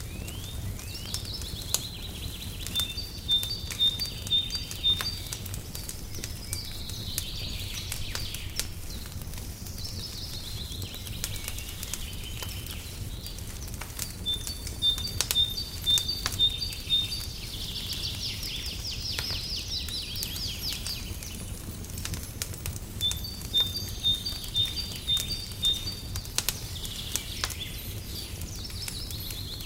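Wood fire crackling in a fireplace, with irregular sharp pops over a low, steady rumble. A songbird sings the same phrase three times, near the start, in the middle and near the end: a run of short, even high notes followed by a buzzy trill.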